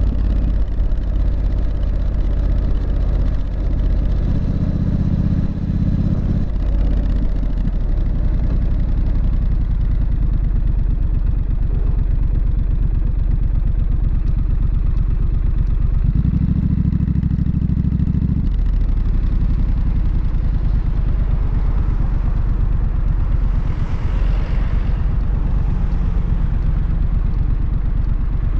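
Triumph Street Scrambler's 900 cc parallel-twin engine running through its exhaust, its note shifting a few times with a stronger low burble for about two seconds past the middle. A brief rush of noise comes near the end.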